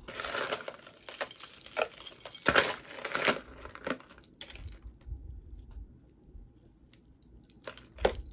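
Crinkling and rustling from things being handled, with a few sharp clicks; busiest in the first four seconds, with another short burst near the end.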